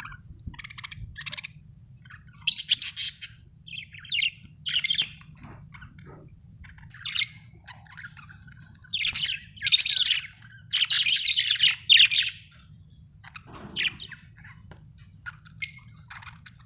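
Pet budgerigars chirping and chattering in short irregular bursts, busiest and loudest from about nine to twelve seconds in, over a faint steady low hum.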